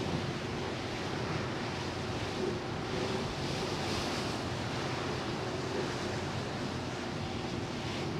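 Wind buffeting the microphone over the rush of sea water past the hull of a large ferry under way, with a faint steady hum from the ship.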